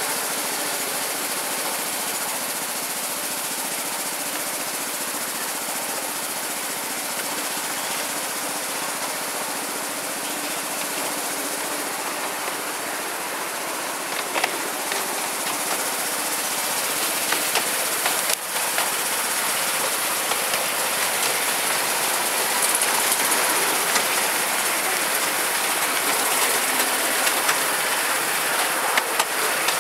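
Miniature railway train running along its track: steady running noise of the carriages and locomotive, with occasional sharp clicks from about halfway on.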